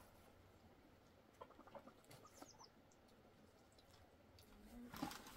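Near silence, with a few faint, short, high chirps from a bird about one and a half to two and a half seconds in.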